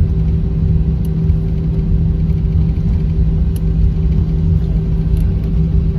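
Cabin noise of an Airbus A319-100 taxiing: a steady low rumble with a constant droning hum.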